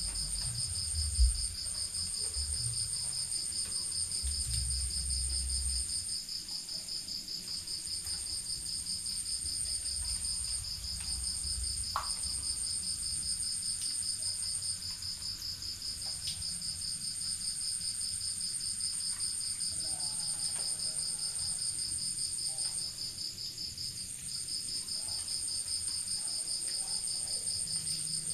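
Night crickets trilling steadily, two continuous pulsing choruses at different high pitches. A brief low thump about a second in, and low rumbling through the first few seconds.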